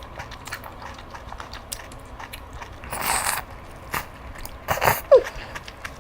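Close-miked eating sounds: wet biting and chewing of shellfish with scattered sharp clicks. A louder crunchy burst comes about halfway, then a few more bursts and a brief falling squeak near the end.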